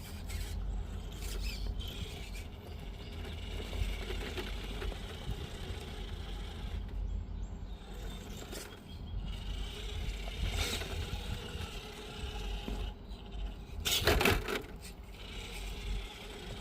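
RC rock crawler on rock: its small electric motor and gears whining while the tyres scrape and grind over stone, with a louder scraping clatter about fourteen seconds in.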